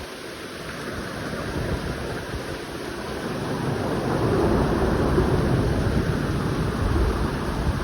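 Heavy tropical downpour with wind, growing steadily louder, and a deep rumble building from about halfway through.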